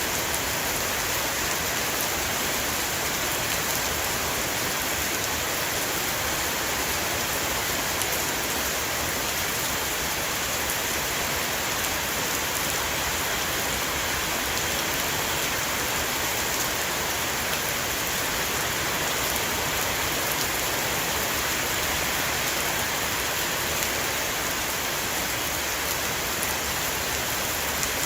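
Heavy shower rain falling steadily on a roof: a dense, even hiss with faint patter from individual drops.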